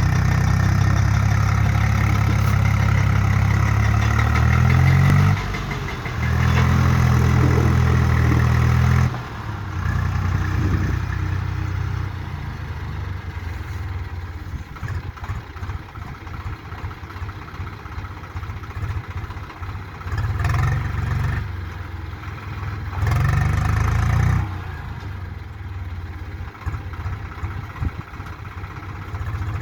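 Swaraj 735 FE tractor's diesel engine held at high revs for several seconds twice, dropping back to a rough idle. It is revved up briefly twice more later on.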